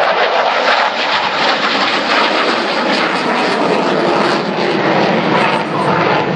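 F-16AM Fighting Falcon fighter jet, its Pratt & Whitney F100 turbofan engine giving a loud, steady rushing noise during a display flight.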